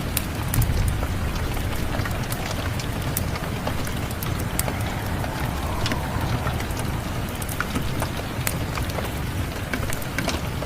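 Steady rain with a wood fire crackling: many scattered sharp pops and snaps over an even, low rushing noise.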